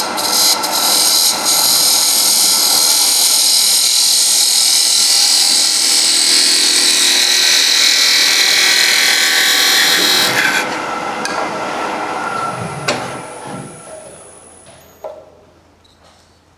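Turning tool cutting spinning wood on a lathe: a loud, even hiss for about ten seconds as the tool takes off the last of the waste from a fitting, which then stops sharply. After the cut, the lathe runs on more quietly, with one click, and the sound fades away near the end.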